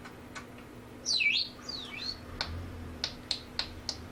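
Pet bird giving two quick sweeping chirps about a second in, over a steady run of sharp ticks, about three a second.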